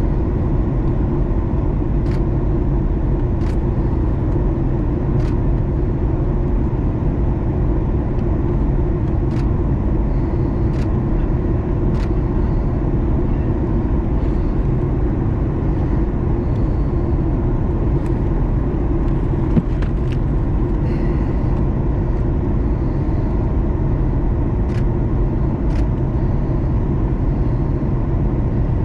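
Steady cabin noise inside a Boeing 737 MAX 9 on approach: a low, even rumble of its CFM LEAP-1B engines and airflow, with a few faint ticks.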